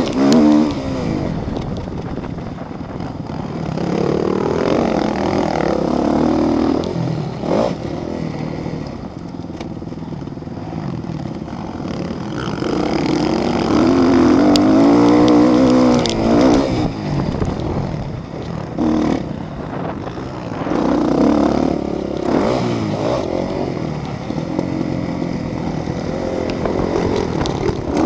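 Motocross motorcycles racing, their engines revving up and down in repeated swells as riders accelerate and pass, several times over.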